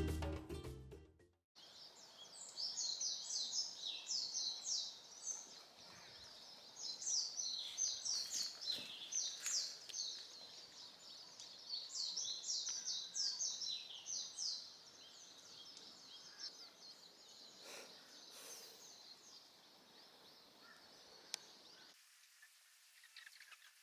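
Birds chirping: dense runs of quick, high, short notes in several bursts over faint background hiss, cutting off abruptly near the end.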